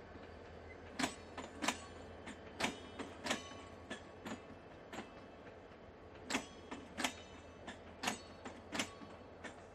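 Train cars rolling slowly on the track: irregular sharp metallic clicks of the wheels, about one or two a second, some with a brief ringing, over a low steady hum.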